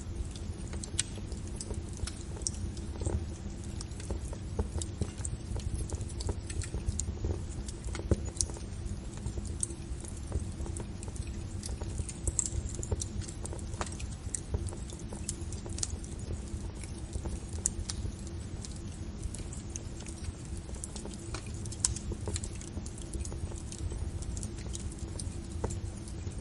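Fire burning with frequent sharp crackles and pops at irregular intervals over a steady low rumble.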